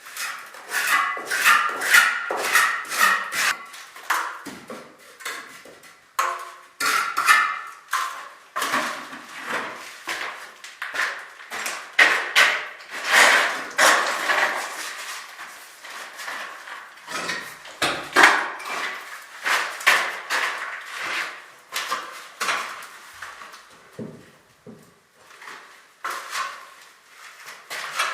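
Hand tools knocking, tapping and scraping in quick, irregular succession, some strikes with a short metallic clink.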